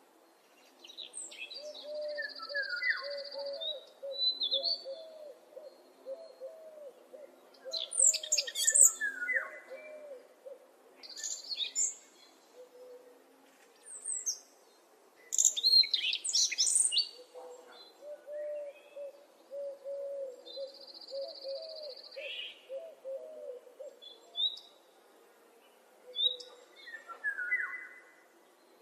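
Forest birdsong: a fast run of low hooting notes comes twice, lasting a few seconds each time, with higher songbird chirps and whistles calling over it.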